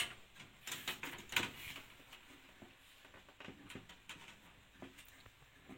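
Light clicks and knocks of a motherboard being handled into a computer case and pressed against the metal I/O back panel, its ports lining up with the panel's holes. A cluster of sharp clicks comes in the first second and a half, with a few fainter taps later.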